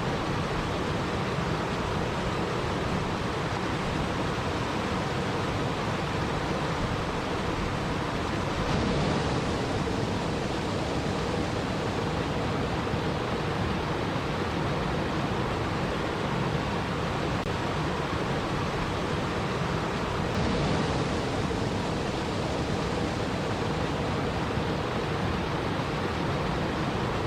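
Steady rushing water, an even hiss with no distinct drops or splashes. It brightens slightly about nine seconds in and again about twenty seconds in.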